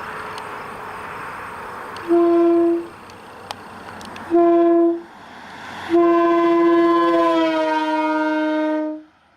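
Train horn blown as it is driven past in a run-by: two short blasts and then one long blast, each a loud steady multi-tone blare that cuts off sharply. The pitch drops slightly partway through the long blast as it goes by.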